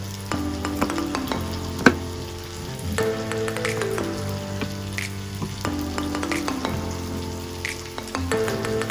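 Kitchen knife chopping water spinach (kangkong) stems on a wooden chopping board: irregular sharp knocks, the loudest about two seconds in. Background music with a repeating melody and bass runs underneath.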